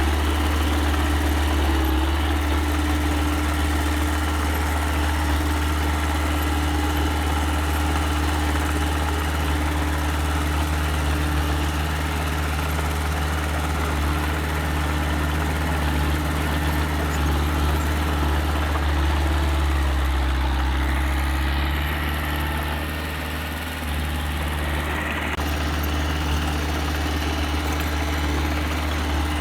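Diesel engine of small earthmoving machinery running steadily at a low, even note. About twenty seconds in, its pitch drops briefly and its level dips, then both come back up.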